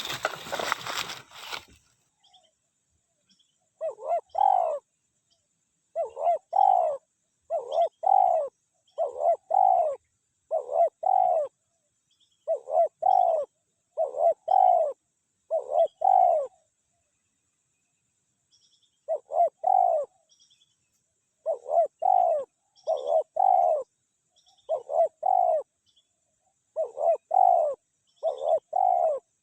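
Spotted dove cooing: repeated short coo phrases, one about every second or two, with a pause of a couple of seconds in the middle. A brief rustling noise at the very start.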